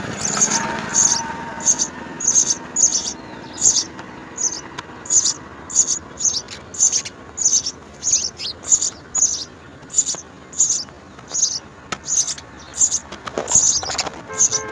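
House sparrows chirping: short, high chirps repeated steadily about twice a second.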